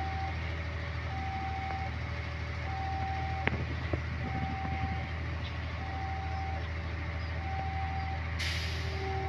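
Diesel engine idling steadily while an electronic warning beeper sounds one long beep about every one and a half seconds. A click sounds about a third of the way in, and a short hiss of air comes near the end.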